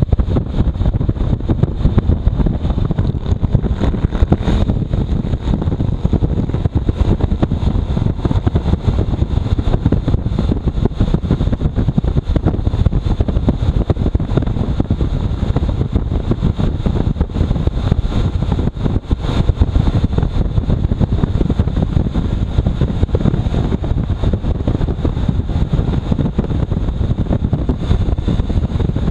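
Motorcycle riding at speed, its engine and road noise nearly buried under heavy wind buffeting on the microphone. The roar is steady and flutters constantly.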